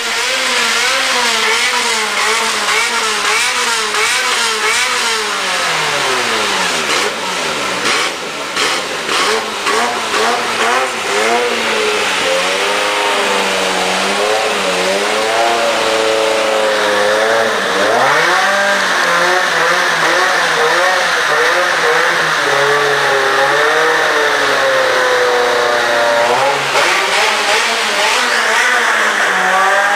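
Ferrari F355 Spider's 3.5-litre V8 being revved hard and repeatedly, its pitch climbing and falling in quick blips, with a steep rise about eighteen seconds in. A run of short sharp clicks sits among the revs between about seven and eleven seconds in.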